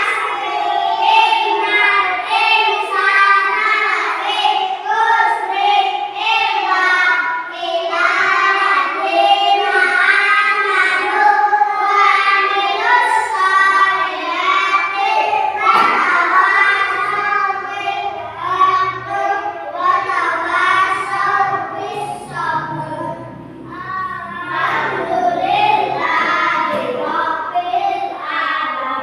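Children singing a song together, high young voices carrying a melody with held notes.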